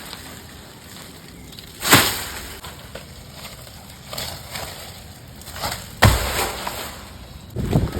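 Two loud sudden crashes about four seconds apart, with lighter knocks and crackling between them.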